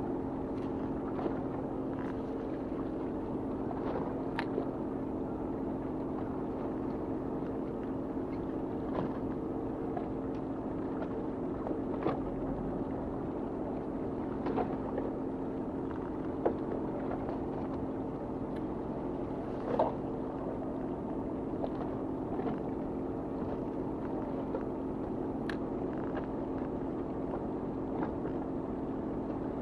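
Fishing boat's engine running steadily with an even hum, and a few sharp light knocks scattered through it.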